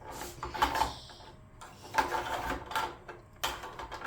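A spoon knocking and scraping irregularly against a container of water as the cars are stirred and handled.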